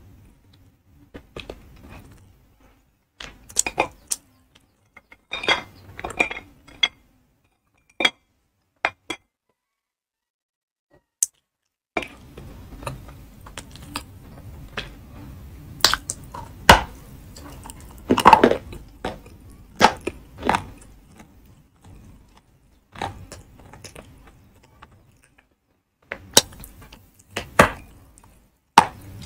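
Chewing and crunching of edible chalk (ayilo): sharp, crackling crunches in irregular clusters with short silent pauses, and a fresh bite into a piece near the end.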